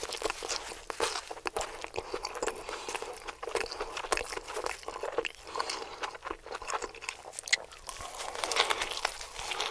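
Crunchy food being bitten and chewed close to the microphone: a dense, irregular run of crackling crunches.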